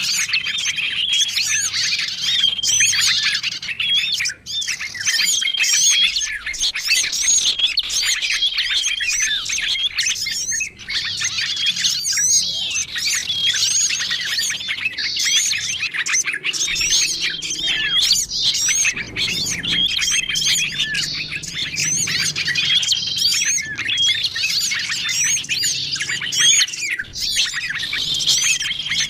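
Bird-lure recording of many small songbirds chirping and twittering at once, a dense, unbroken high-pitched chorus. A short steady whistled note comes back every few seconds.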